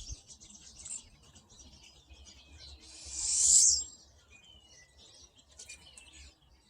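A flock of pine siskins chirping and twittering in short high notes. About three seconds in comes a louder hissing, buzzy sound lasting about a second.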